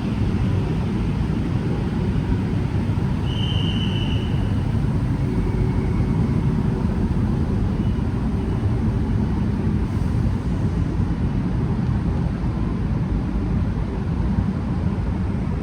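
Steady low rumble of a train moving through the station, with a brief high squeal about three and a half seconds in.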